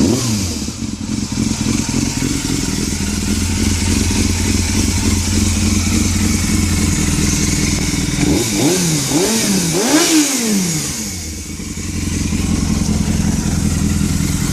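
2000 Yamaha YZF600R Thundercat's inline-four engine, through a Yoshimura slip-on exhaust, starts and idles, revved in four quick blips a little past halfway before settling back to idle. Under it is a faint hissing, rubbing noise, louder than it used to be since a wheelie attempt, which the owner suspects is a leaking valve.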